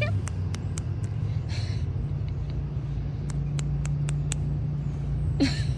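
A motor vehicle's engine running steadily, a low rumble, with scattered faint clicks over it.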